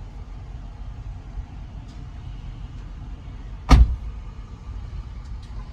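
A car door shuts once with a single loud thump, over a steady low rumble.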